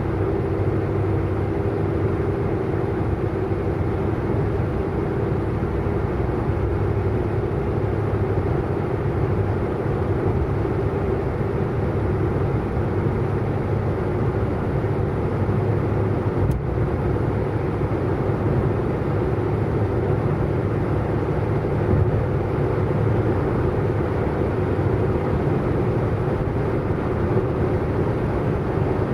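Car cruising at a steady speed: a constant drone of engine and road noise with no revving or change in pitch.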